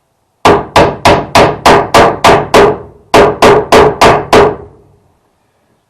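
Hammering: a quick run of eight blows about three a second, a short pause, then five more.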